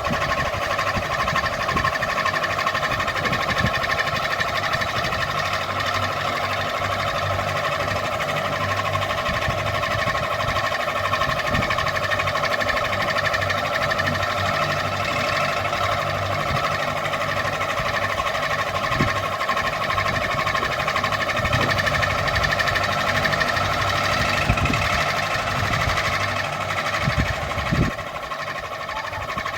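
Ceiling fan running steadily: a continuous motor hum with a few steady whining tones and occasional light knocks.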